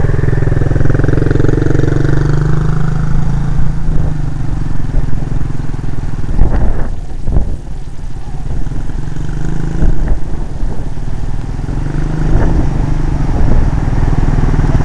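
Small dirt bike engine, a Honda CRF50, running steadily throughout, with a few sharp knocks about halfway.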